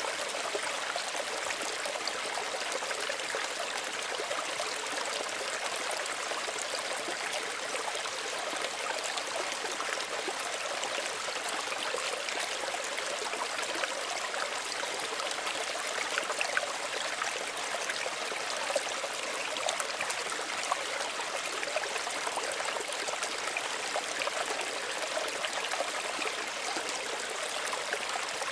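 Small stream running steadily over stones, a constant babble and trickle of water with small splashes flickering through it.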